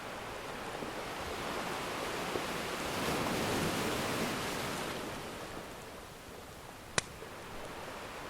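Ocean surf: a wave washes in, swelling to a peak and then drawing back. Near the end a single sharp pop from a crackling wood fire cuts through.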